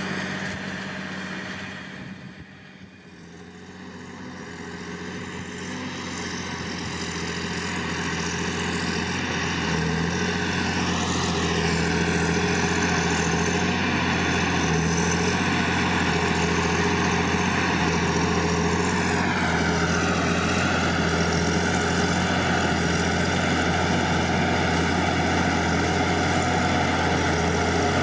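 John Deere 8520T crawler tractor's 8.1-litre PowerTech six-cylinder diesel running under ploughing load. It fades to its quietest about three seconds in, then grows louder again and holds steady, with a slight drop in pitch near the end.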